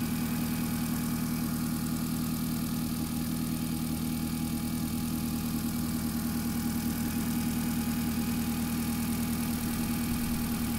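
2005 Kia Picanto's four-cylinder petrol engine idling steadily in the open engine bay, running smoothly with no squeal from its fan belt, which has just been dabbed with dish-soap water.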